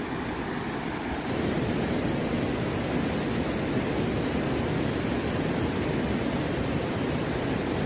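Steady rush of water from a waterfall and a river running high in spring flow, getting louder about a second in.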